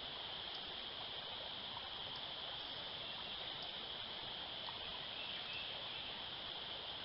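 Steady creekside ambience: running creek water under a constant high-pitched insect drone.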